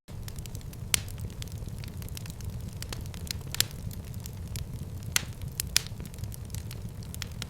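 Fire crackling in a fireplace: a steady low rumble of flames with scattered sharp pops and snaps, the loudest about a second in and twice a little after the middle.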